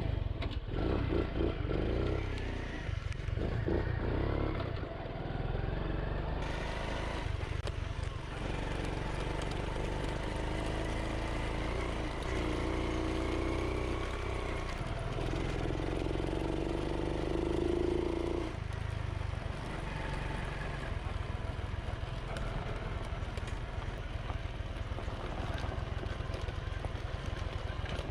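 Small single-cylinder four-stroke engine of a Honda Monkey motorcycle running while being ridden, its note rising and falling as it speeds up and slows.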